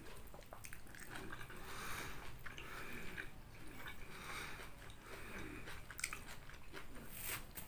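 Close-up chewing of a mouthful of mie ayam (chicken noodles), with small clicks of a metal spoon against the ceramic bowl, a few sharper ones near the end.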